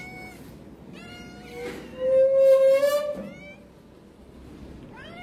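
Several domestic cats meowing over one another, with one loud, drawn-out meow about two seconds in. They are hungry cats calling as they wait to be fed.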